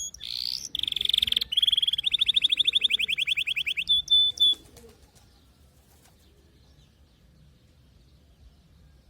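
Canary singing: a rising note, a fast rattling trill, then a short held whistle, stopping about four and a half seconds in.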